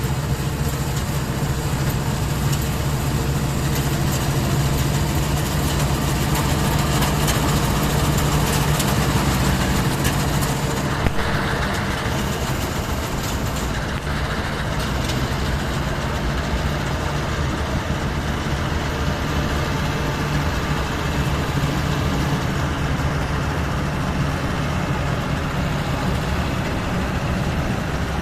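Diesel engine of a Mahindra Novo 655DI tractor running steadily at a constant speed, with one sharp click about eleven seconds in. The high hiss over the engine drops away after about fourteen seconds.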